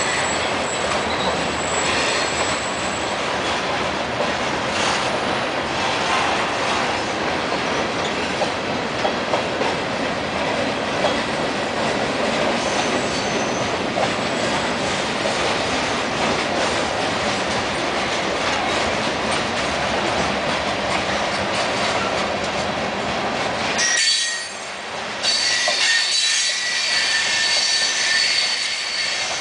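Freight train of tank cars and open hopper cars rolling past: a steady rumble and clatter of steel wheels on rail. A thin, high wheel squeal sounds in the first few seconds, and several squealing tones return in the last few seconds.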